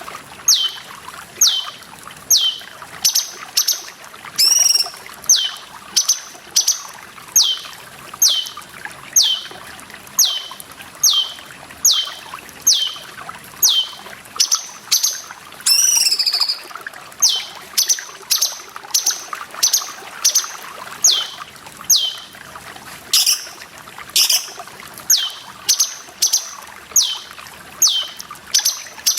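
Cucak cungkok calling a short, sharply falling whistle over and over, about one and a half notes a second, with a longer, harsher call about four seconds in and again near the middle. Water trickles steadily underneath.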